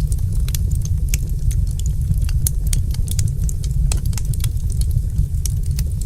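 Wood fire crackling in a fireplace: irregular sharp pops and snaps, several a second, over a loud, steady low rumble.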